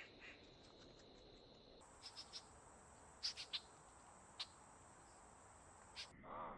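Faint steady high-pitched insect trill, likely crickets, with several short bird chirps scattered through, and a louder bird call near the end. The background changes abruptly twice, like recordings cut together.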